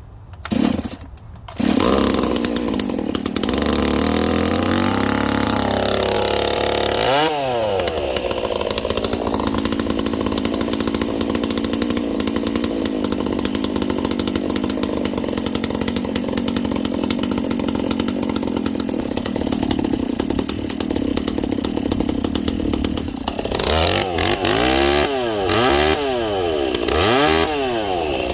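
Stihl 026 two-stroke chainsaw cold-started by pull cord: a short burst, then the engine catches about two seconds in and keeps running. It is revved once briefly around seven seconds in, runs steadily, then is revved up and down repeatedly near the end.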